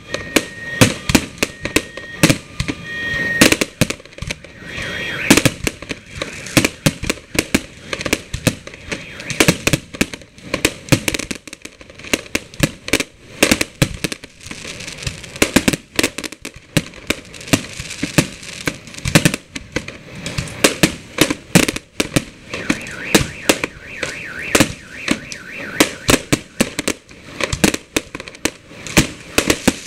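Fireworks display: aerial shells bursting in rapid, continuous succession, a dense run of sharp loud bangs. A high steady tone sounds on and off during the first few seconds.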